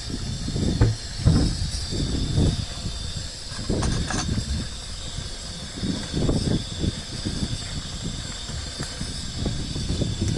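Gas burner hissing steadily under a boiling pot of curry, with irregular low rumbles of wind on the microphone.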